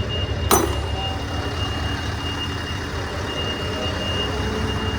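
Scania 660 V8 truck engine running at low revs through its exhaust, a steady, evenly pulsing low rumble. A sharp click comes about half a second in, and a thin, steady high whistle sits over the engine.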